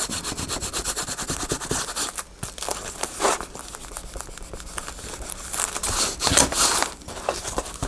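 Paper being rubbed and pressed down by hand onto a glued journal hinge: rapid scratchy rubbing strokes at first, then irregular rustling and crinkling of the paper, with a few louder swishes.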